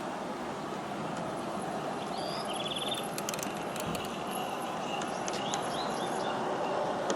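G scale model passenger train rolling along garden track: a steady rumble of wheels on rail with scattered sharp clicks. Small birds chirp a few times and give one brief rapid trill near the middle.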